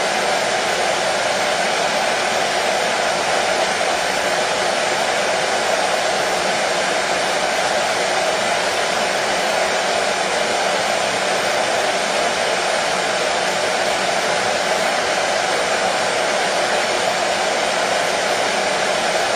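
Hair dryer running steadily: an even, unbroken whoosh of blown air and motor with no change in speed.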